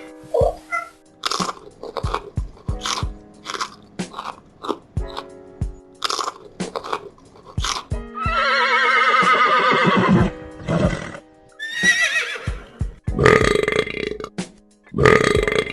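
A domestic animal chewing with many sharp crunches, then a long wavering call about eight seconds in and shorter calls near the end. Faint background music runs underneath.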